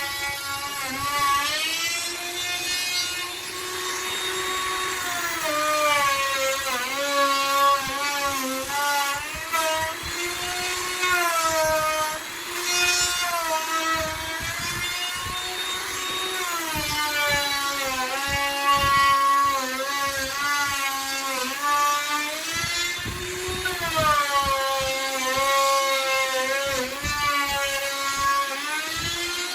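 Handheld electric wood router running as it carves wood. It makes a continuous high whine whose pitch sags and recovers again and again as the bit takes load.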